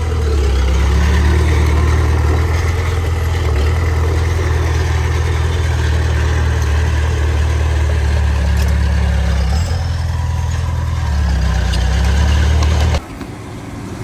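Heavy diesel engine of earthmoving machinery running steadily with a strong low rumble. The level drops suddenly near the end to a quieter engine sound.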